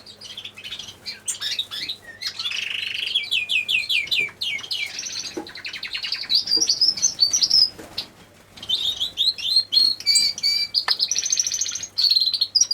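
Many small aviary birds chirping and trilling at once, a busy stream of short high calls with brief lulls, over a faint steady hum.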